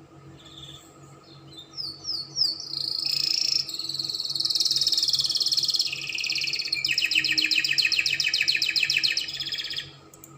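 Spanish Timbrado canary singing one phrase: a few quick falling notes about two seconds in, then a long rapid trill that switches about seven seconds in to a different, fast-beating roll and stops shortly before the end.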